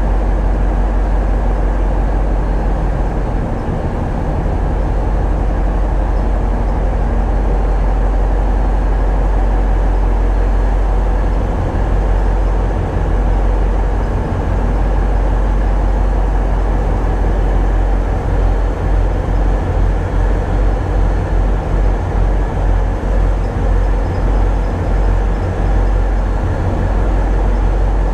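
Tugboat's diesel engines running steadily, a loud low rumble, heard on board; the low end flutters rapidly in the second half.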